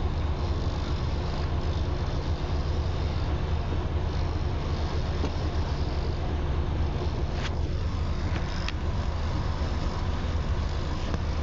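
Steady low rumble of a motor vehicle on the move, road and engine noise without a break, with a brief faint falling tone about seven and a half seconds in.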